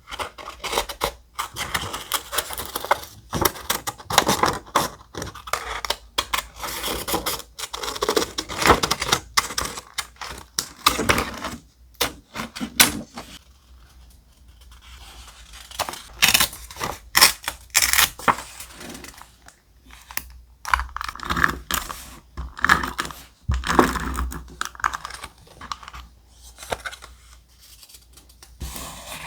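Thick paper and stickers being handled close to the microphone: crinkling, tearing and peeling in quick, crackly, clicky bursts, with a quieter lull about halfway through.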